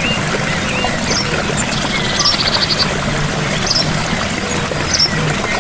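Gentle waterfall, water splashing and pouring steadily, with short high chirps about once a second and a brief trill about two seconds in.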